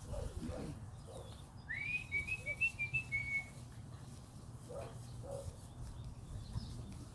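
A short, high whistled phrase about two seconds in: one rising note followed by a quick run of short notes, lasting about two seconds.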